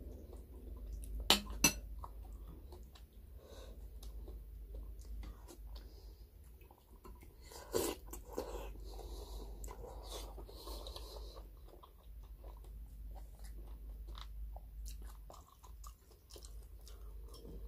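Close-miked eating of beef sinigang: steady chewing with small wet crackles. A metal spoon clinks twice against the glass bowl about a second in, and there is a louder slurp from the spoon around eight seconds.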